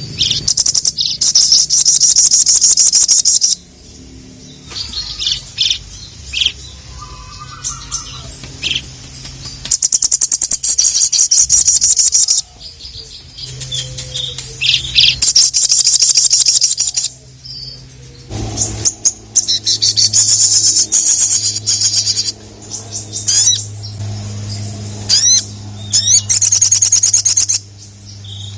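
A sogon (sogok ontong) songbird singing in full: loud bursts of fast, rapidly repeated high notes lasting two to three seconds each, broken by shorter single chirps and brief pauses. A faint steady low hum sits underneath.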